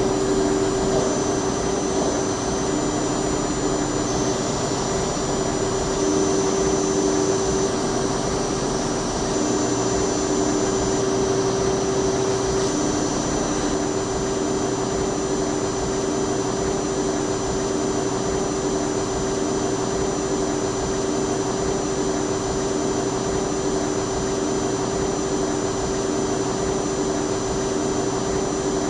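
PLG-42XL CNC lathe running while cutting steel: a steady machine whine over a rushing hiss, with a second, lower tone that cuts in and out several times in the first half.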